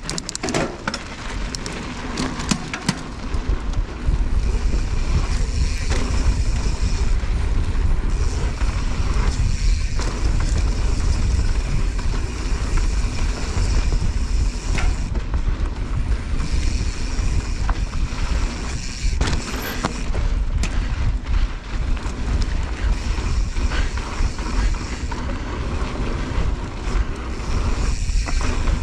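Mountain bike descending a loose dirt trail at speed: wind buffets the microphone with a heavy steady rumble, over tyre noise on the dirt and sharp rattles and clicks from the bike over bumps.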